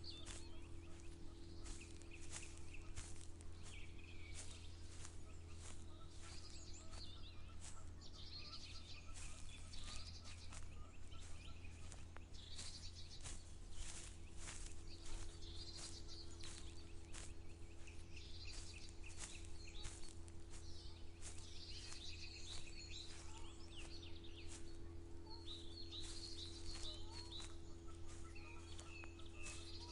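Several birds singing and chirping in short phrases, over the steady tread of footsteps walking at about two steps a second, with a low steady hum underneath.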